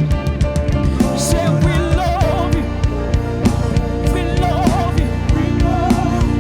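Live gospel worship music: a band with guitar, bass and drums playing a steady beat, with a wavering sung vocal line coming in about a second and a half in.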